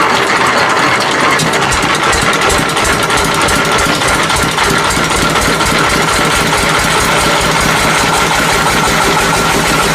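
A sawmill's engine running steadily and loudly, with a fast, even pulsing beat.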